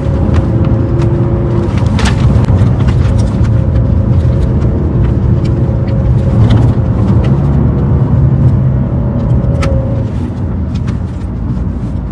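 Car engine pulling hard under acceleration, with road noise, heard from inside the cabin; a steady low hum with a few small clicks, easing off near the end.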